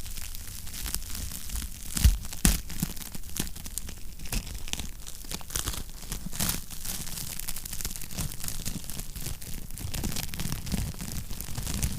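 Wood fire crackling in a fireplace: a dense run of small snaps and pops over a low rumble, with two louder pops about two seconds in.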